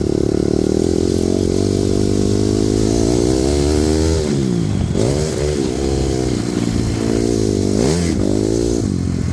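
Honda CRF250R dirt bike's single-cylinder four-stroke engine running hard, the revs dropping sharply and climbing back a few times from about four seconds in, and again near the end, as the throttle is chopped and reopened.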